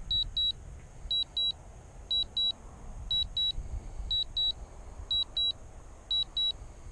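Drone remote controller beeping in high double beeps, one pair about every second, as it sounds its alert while the drone auto-lands on a low battery. Wind rumbles low on the microphone underneath.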